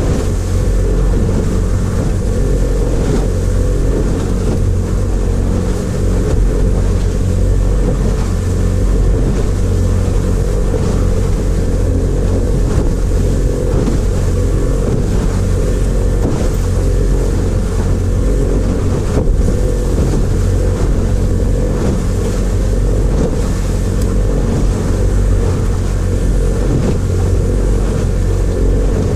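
Outboard motor of a Kazanka-5 aluminium motorboat running steadily under way, with strong wind buffeting the microphone.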